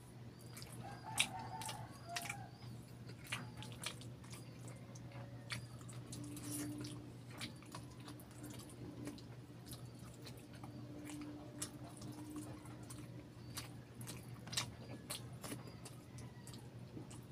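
Close-miked eating sounds: wet chewing and biting on sauce-covered barbecue chicken eaten by hand, with many sharp, sticky mouth clicks and smacks scattered throughout.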